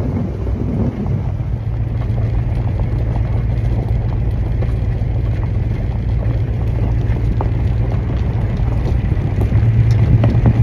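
A 1969 Dodge Charger's engine running with a steady low drone as the car drives slowly along a gravel driveway. The engine note swells louder near the end.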